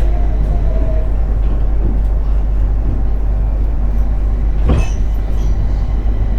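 Interior running sound of a JR 701 series electric multiple unit under way: a steady rumble of wheels on rail, with a single sharp clunk nearly five seconds in.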